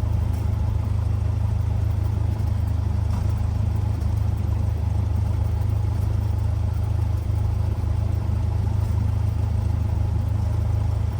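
Cessna 172R's four-cylinder Lycoming engine running steadily at low taxi power, a low even hum heard from inside the cockpit.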